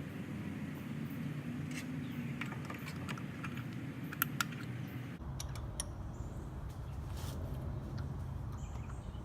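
Scattered light clicks and clinks of hand tools being handled, over a steady low rumble that shifts lower about five seconds in.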